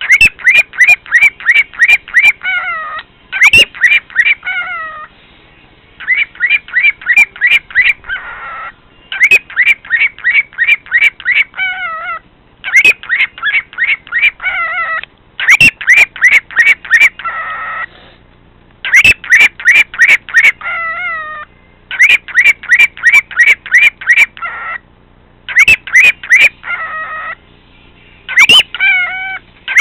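Cockatiel calling loudly in repeated bursts of quick, sharp chirping notes, about five or six a second. The phrases last two to three seconds with short pauses between, many ending in a few lower, falling notes.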